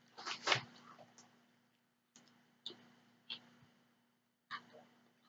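Close-miked mouth sounds of someone eating: wet clicks and smacks of chewing, a louder cluster at the start and then a few single clicks with quiet gaps between them.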